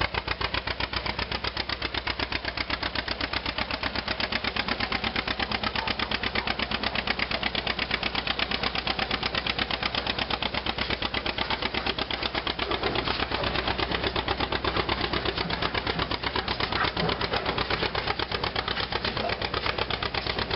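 An antique tractor engine running with a fast, even firing beat.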